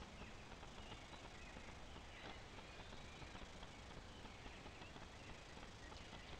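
Faint, distant bird chirps, short and scattered, over the steady hiss of a trail camera's microphone.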